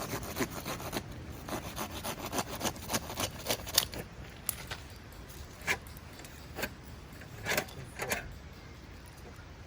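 Rasping strokes on wood, quick and close together at first, then slower and more widely spaced.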